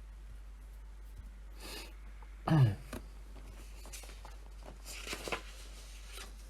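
One short, loud cough or throat-clear with some voice in it, falling in pitch, about two and a half seconds in, after a faint breath in. Fainter clicks and rustles follow a couple of seconds later.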